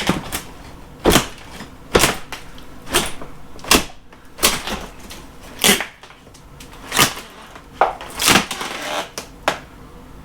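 Hammer knocking on wood framing: about a dozen sharp blows, roughly one a second, some followed by a brief rattle.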